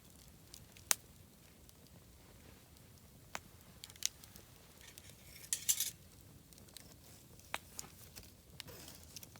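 Wood bonfire crackling: sharp single pops about a second in, twice more around three to four seconds, a short burst of crackles in the middle and another pop near the end, over a faint low hiss.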